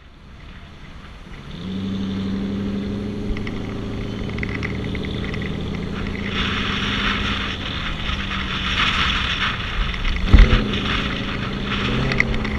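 Car engine running steadily while driving. It fades in and grows louder over the first two seconds, a rushing hiss joins from about six seconds in, there is a loud low thump about ten seconds in, and the engine climbs in pitch near the end.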